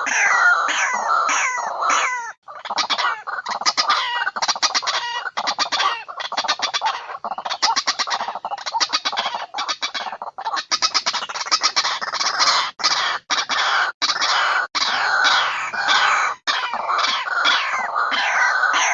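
White-breasted waterhen calls from a bird-lure recording: dense, continuous calling of fast runs of short repeated notes mixed with series of falling notes, several calls overlapping, with a brief break about two and a half seconds in.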